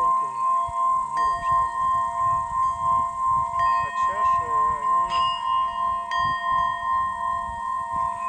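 Tibetan singing bowls: one bowl is sung by circling a stick around its rim, giving a steady ringing tone that pulses in loudness two or three times a second. Other bowls are struck about four times, each strike adding a new ringing tone over it.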